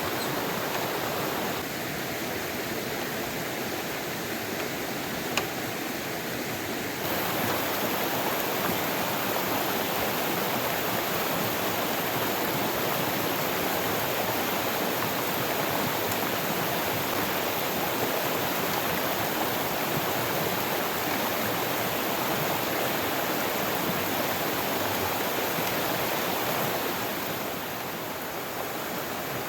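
Steady rush of flowing river water. Its level and tone shift a few times, with one brief click about five seconds in.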